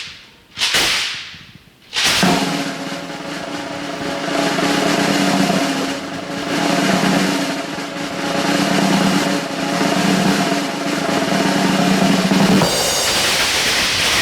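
Two sharp drum hits, then a long sustained drum roll with steady low tones beneath it, from about two seconds in.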